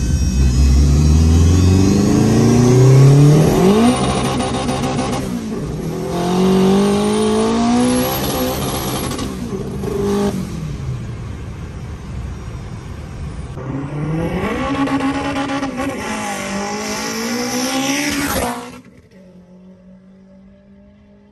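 Turbocharged K24 2.4-litre four-cylinder in a Honda Civic EG under full-throttle acceleration, heard from inside the cabin: the revs climb, break at each of several upshifts, and climb again. About 18 seconds in the engine sound cuts off abruptly, leaving a much quieter steady hum.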